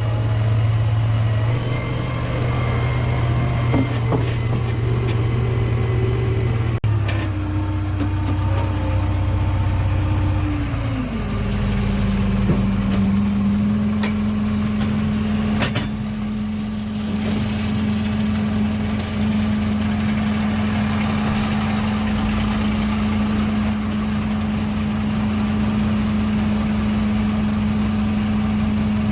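Heavy diesel vehicle engine running steadily, its pitch shifting higher about eleven seconds in and holding there.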